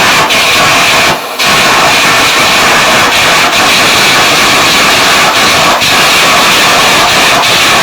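Electric arc welding: the arc crackles and hisses loudly and steadily, dropping out briefly a little over a second in.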